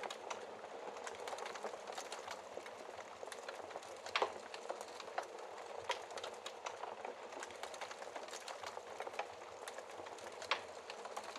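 Wood fire crackling in a fireplace: a steady hiss of burning with frequent small pops and snaps, two of them louder, about four seconds in and near the end.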